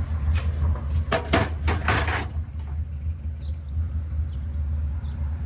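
A quick series of knocks and rattles in the first two seconds, then a steady low rumble.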